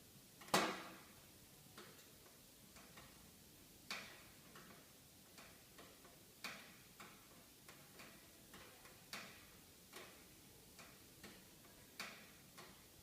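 Wood fire in a fireplace crackling: faint, irregular pops and snaps, with one louder pop about half a second in.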